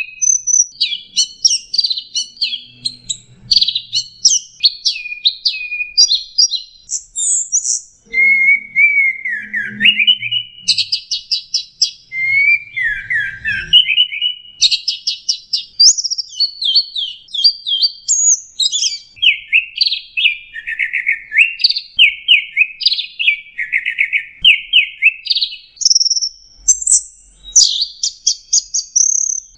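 Long-tailed shrike (cendet) singing a continuous, varied song of rapid chirps, fast trills and whistled notes that sweep down and up, changing phrase every second or two.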